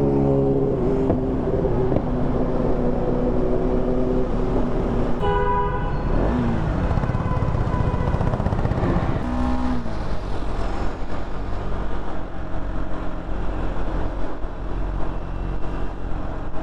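Motorcycle engine running while riding in traffic, with low wind rumble on a helmet-mounted mic. A vehicle horn honks about five seconds in, and another short honk comes near the middle.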